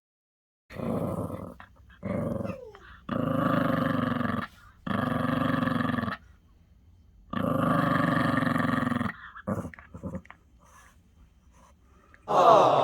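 Maltese dog growling in a series of drawn-out growls of about a second each, with a few shorter ones between. A louder sound with a wavering pitch comes right at the end.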